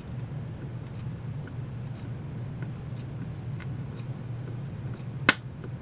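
Steel tack pullers working small tacks out of a wooden basket frame: a few faint light ticks, then one sharp metallic click about five seconds in, over a steady low hum.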